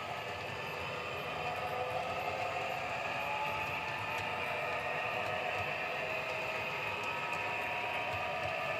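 Model Class 66 diesel locomotive's Hornby TTS sound decoder playing the diesel engine's running sound through the model's small speaker: a steady drone with a few held tones.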